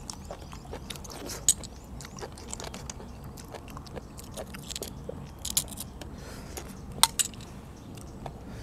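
A person chewing and eating blanched blood cockles. Scattered sharp clicks of a spoon against cockle shells come through, the loudest about seven seconds in.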